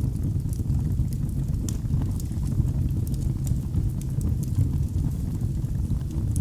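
Wood fire burning in a fireplace: a steady low rumble of flames with many small, irregular crackles and pops throughout.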